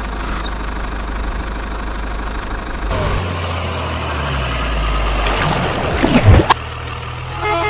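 Vehicle engine running steadily at idle, with a sharp knock just after six seconds in.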